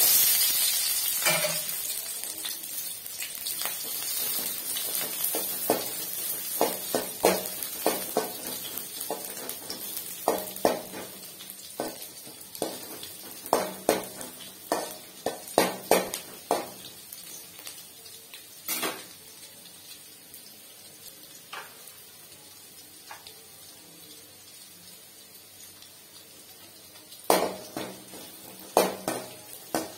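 Shallots dropped into hot oil in a stainless steel kadai sizzle at once, the sizzle slowly fading. A perforated steel skimmer ladle stirs them, clinking and scraping against the pan many times, in flurries through the middle and again near the end.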